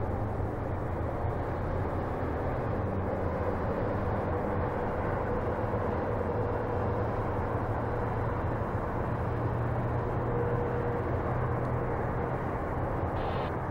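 Distant BNSF freight train with several diesel locomotives running steadily as it rolls across a steel river bridge: a low, even rumble with a faint steady hum.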